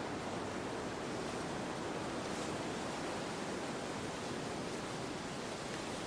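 Steady wind, an even rushing noise strongest in the lower-middle range, without distinct gusts or breaks.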